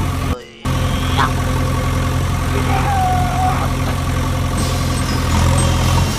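Steady low tractor-engine idling sound, cut off briefly for a moment about half a second in.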